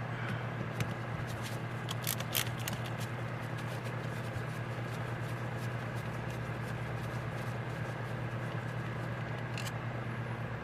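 Light clicks and scrapes of small metal carburetor parts and screws being handled, a cluster in the first few seconds and one more near the end, over a steady low hum.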